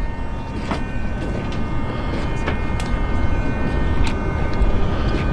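Engine of a giant radio-controlled model aircraft running steadily: several high whining tones over a heavy low rumble, growing slightly louder, with a few light clicks.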